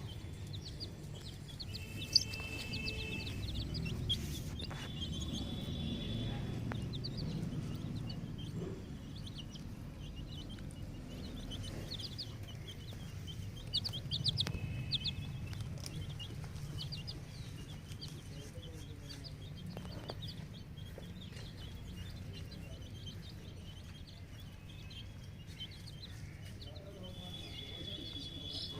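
A brood of chicken chicks peeping: many short, high, falling cheeps overlapping without pause, over a low steady rumble.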